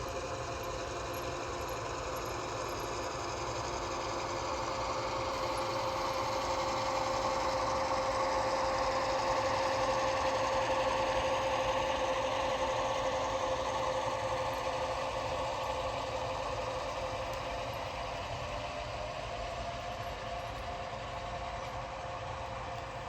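HO-scale model F-unit locomotives on Stewart drive mechanisms running, a steady electric motor and gear whine with the rumble of small wheels on track. It grows louder to a peak about ten seconds in, then slowly fades as the train passes.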